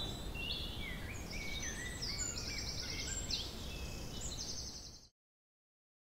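Several small birds chirping and trilling over a low, steady outdoor background noise, cutting off suddenly about five seconds in.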